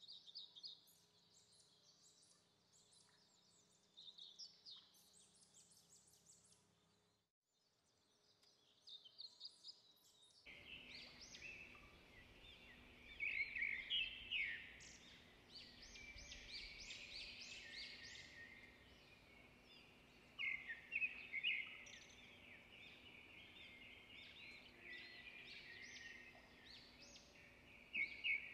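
Birds chirping faintly in clusters of short, quick calls. The sound drops out briefly about seven seconds in, then returns louder and busier from about ten seconds in.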